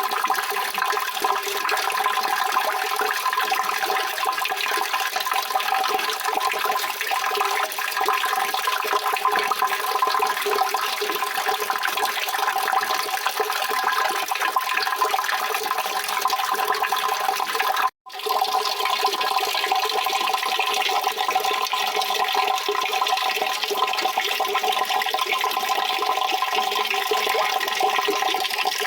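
Water running and splashing, an even rushing noise. It cuts out for an instant about eighteen seconds in, then carries on.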